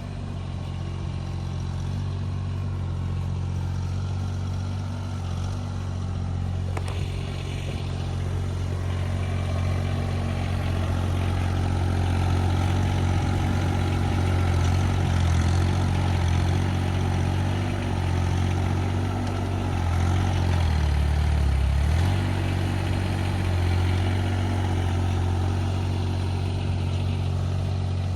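An engine running steadily, its pitch dipping briefly about 20 seconds in before coming back up.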